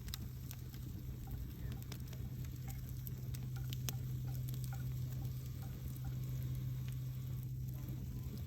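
Wood campfire crackling, with irregular sharp pops and snaps. A steady low hum runs underneath.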